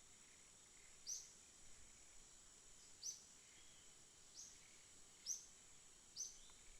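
A bird giving short, sharp high call notes every second or two, over a steady high-pitched insect buzz.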